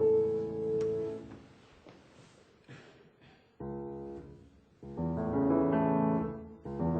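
Acoustic piano playing slow, soft chords, each left to ring and fade, with a near-quiet pause between the first chord and the next.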